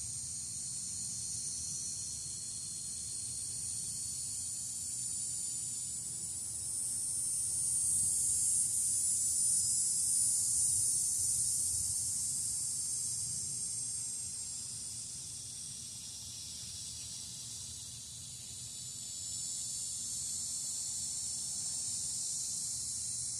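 A steady, high-pitched chorus of insects outdoors, swelling louder for a few seconds in the middle, over a faint low rumble.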